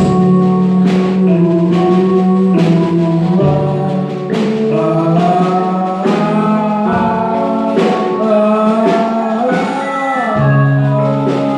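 Gospel worship music: singing over sustained keyboard chords and a steady beat.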